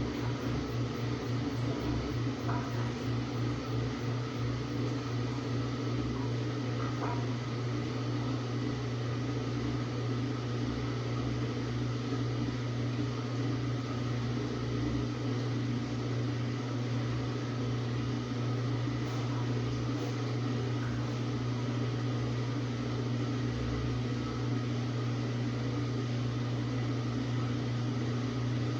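Samsung WA45T3200AW top-load impeller washer running with a steady motor hum, pulsing slightly for the first few seconds before evening out.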